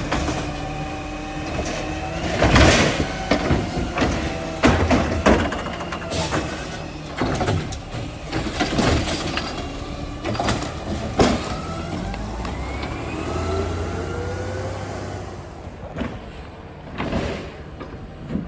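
Garbage truck at work: the engine runs steadily under repeated clanks and bangs, with rising whines in the middle stretch.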